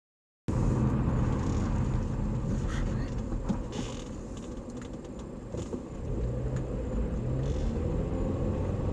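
Steady hum of a vehicle's engine and road noise, as from a moving vehicle, with a few light clicks and rattles. It starts abruptly about half a second in, after dead silence, and dips a little in the middle.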